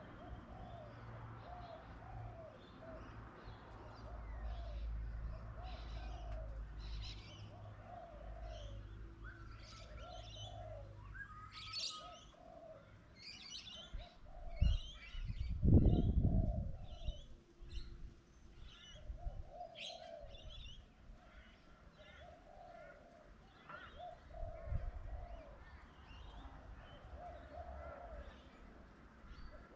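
Doves cooing, a short call repeated about once a second, with smaller birds chirping high above it. A loud low thump about halfway through.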